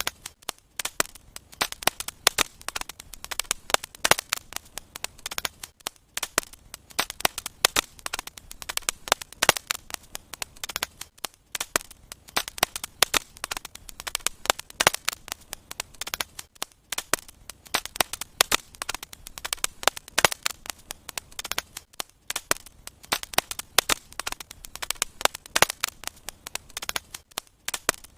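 Wood fire crackling in a fireplace: many irregular sharp pops and snaps, several a second, over a faint hiss.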